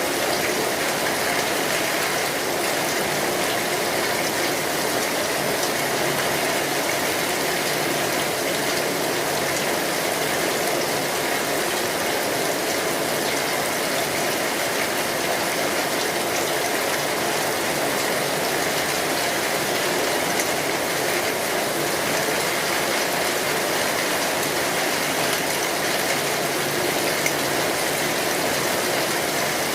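Steady, dense rain drumming on a metal roof, an even unbroken patter.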